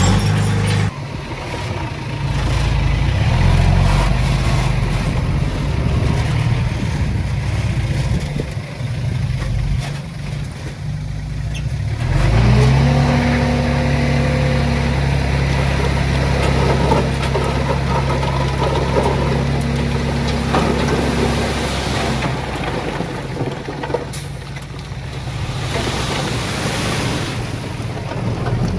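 Diesel engine of heavy earthmoving machinery running and changing pitch under varying load, then holding a steady pitch from about twelve seconds in for some ten seconds.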